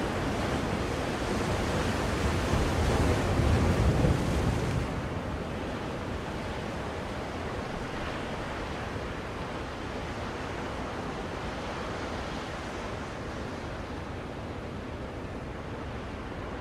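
Recorded ocean surf, an even rushing noise of waves. A wave swells over the first few seconds and peaks about four seconds in, then falls back to a steady wash.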